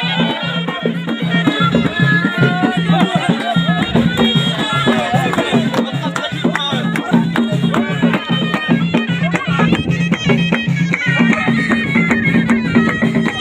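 Moroccan ghaita, a double-reed folk shawm, playing a fast ornamented melody with quick trills and pitch turns, over a steady, evenly pulsing low accompaniment.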